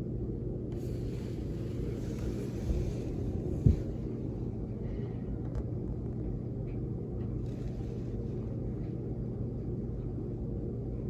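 Strong blizzard wind: a steady low rumble, with gusts hissing in briefly about a second in and again past the middle. A single thump comes a few seconds in.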